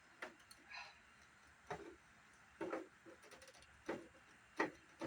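Irregular light clicks and knocks of plastic as the CRT monitor's stand is worked at by hand, trying to free it from the casing: about six separate taps spread unevenly across the few seconds.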